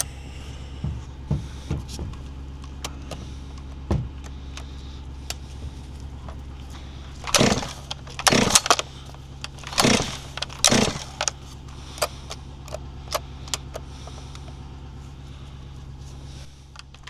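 A small engine, most likely the Stihl MS400C chainsaw, idling steadily, with scattered clicks and several short, louder noises between about seven and eleven seconds in.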